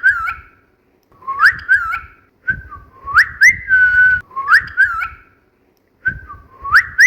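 Cockatiel whistling a short learned tune, repeated about four times with brief pauses: quick rising swoops, some ending in a held steady note, with short high chirps mixed in.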